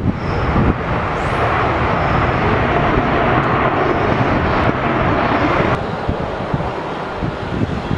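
Jet noise from a Boeing 787-9 airliner's engines as it comes in to land: a loud, steady rush. It cuts off suddenly about six seconds in, leaving low wind rumble on the microphone.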